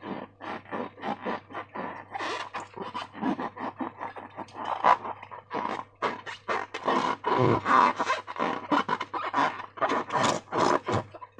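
Slime being squished and worked by hand, a rapid irregular run of short sticky squelches and crackles, several a second.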